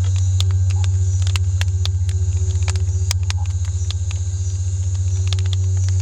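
A loud, steady low droning hum that pulses rapidly, with faint high steady tones above it and scattered sharp clicks and crackles throughout.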